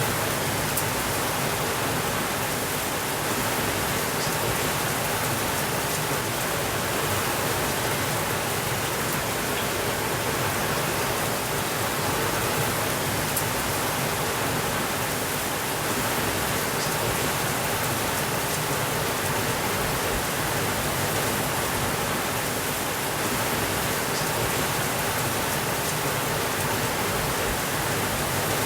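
Steady rain falling, an even dense hiss with no let-up, with a few faint ticks of single drops or crackles.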